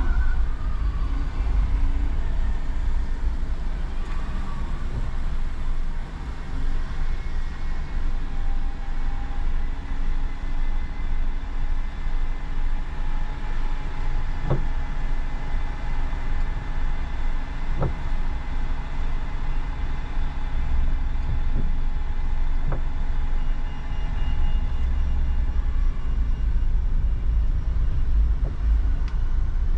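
Inside a moving car's cabin: steady low rumble of tyres and engine on a rain-wet road, with a few faint clicks in the middle.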